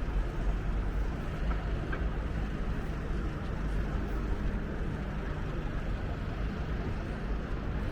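Steady low rumble of city vehicle noise with a faint constant hum, no distinct events standing out.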